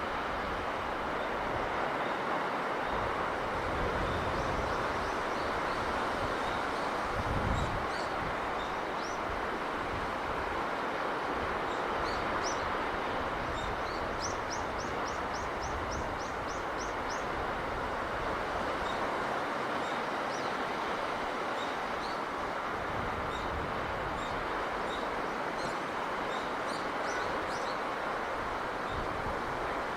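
Steady rushing of a sea breeze, with small birds chirping high above it. There is a quick run of about eight chirps near the middle, and a brief low gust about a quarter of the way in.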